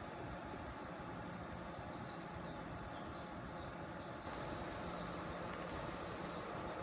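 Insects chirping in short repeated calls over a steady outdoor background hiss; the background steps up slightly about four seconds in.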